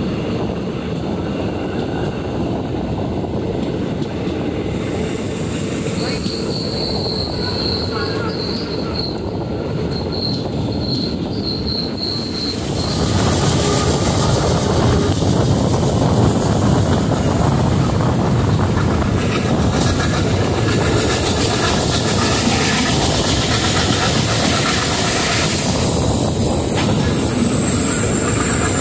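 A train running on the line, its wheels rumbling steadily on the rails, with short high squeaks now and then. About thirteen seconds in the noise gets louder and a high, thin wheel squeal sets in, wavering slightly in pitch.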